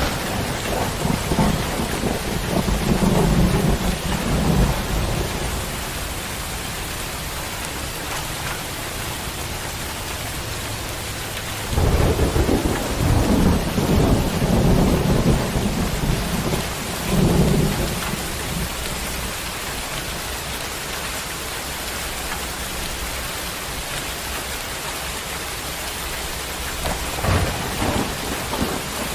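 Heavy rain pouring steadily, with low rolling rumbles of thunder that swell up three times: near the start, for several seconds from about twelve seconds in, and briefly near the end.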